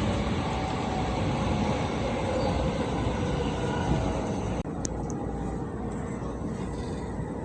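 JR Tokaido Line train running, heard from inside the carriage: a steady rumble of wheels on the rails. About halfway through the sound abruptly turns duller, followed by a couple of sharp clicks.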